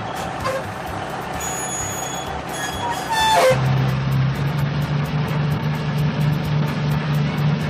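Cartoon sound effects with short whistle-like pitch glides, then about halfway in a cartoon vehicle's engine starts a steady low hum.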